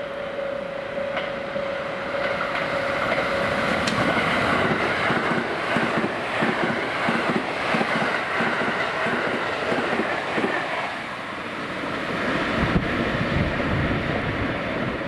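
JR West 683 series electric limited express train, nine cars, passing at speed. The rush of wheels on rail builds, then comes a rapid run of clickety-clack as the wheels pass over the rail joints, easing briefly before the last cars pass. A steady high tone sounds for the first few seconds, before the train arrives.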